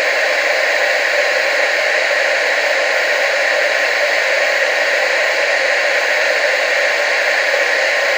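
Steady television static hiss, an even noise that is strongest in the middle range with little bass.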